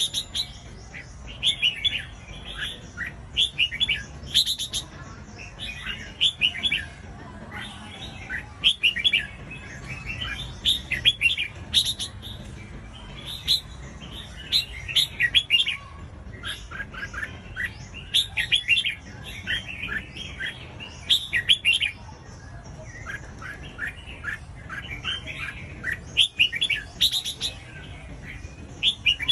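Red-whiskered bulbul singing: short, rapid phrases of clear chirping notes, repeated every second or two.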